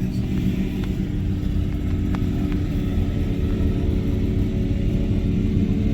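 Car engines running with a steady, even low drone, no single car clearly passing.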